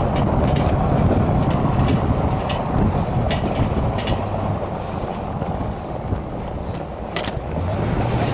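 Freight train passing: a loud, steady rumble with a low hum under it and irregular sharp clicks.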